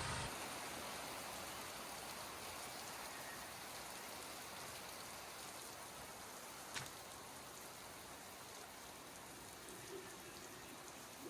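Steady rain falling, an even hiss, with a single sharp tick about seven seconds in.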